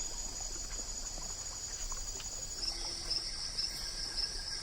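Rainforest insects calling in a steady high-pitched trill. A little past halfway through, a second insect call joins in, pulsing about twice a second.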